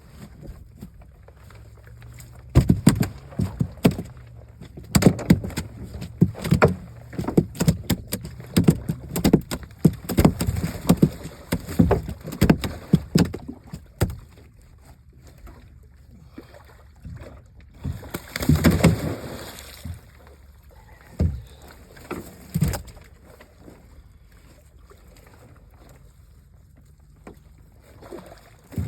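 Rapid, irregular knocks and thumps in a small boat over a low steady rumble. A longer scraping burst comes about two-thirds of the way in, then two single knocks.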